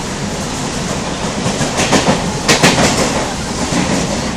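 Moving passenger train heard from inside the carriage: a steady running noise, with a quick run of clickety-clack from the wheels passing over rail joints about two seconds in.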